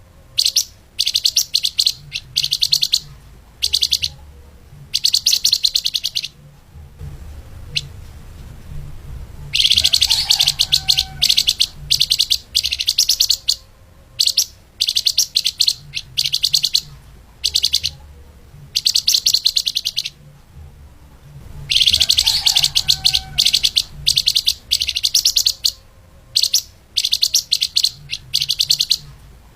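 Recorded song of a flamboyan (lemahan) songbird in fast, dense, high-pitched chattering phrases. Short bursts come about once a second, with two longer runs of about two seconds, a third of the way in and again about three quarters through.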